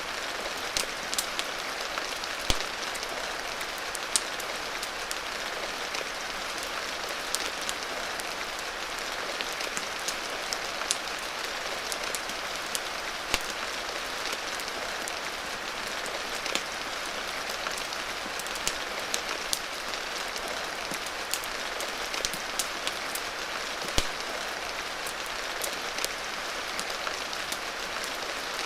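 Steady rain falling, an even hiss, with a wood fire crackling: sharp, irregular pops and snaps scattered through it.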